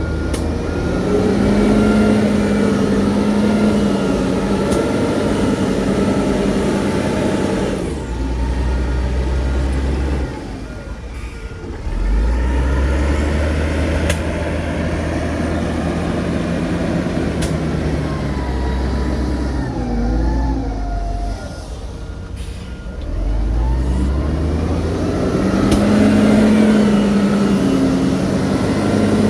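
Diesel engine of heavy earthmoving machinery working, its pitch and loudness rising and falling with load in cycles of roughly ten seconds. A reversing beeper sounds near the start and again about ten seconds in.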